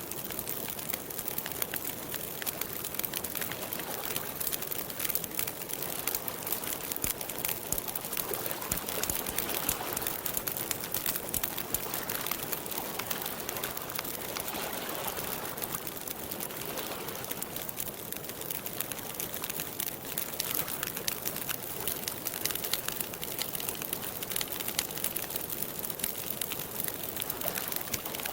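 Wood campfire crackling steadily, with a dense run of small sharp pops.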